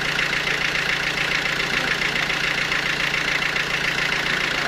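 Sawmill machinery running at a steady level, a constant mechanical drone with a low hum underneath.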